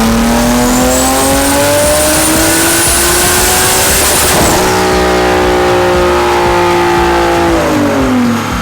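Turbocharged Nissan 370Z's 3.7-litre V6 under full load on a dyno pull, climbing steadily in revs with a high turbo whistle rising alongside. About four and a half seconds in, the whistle drops away and the engine settles at a steady high speed. Near the end it winds down.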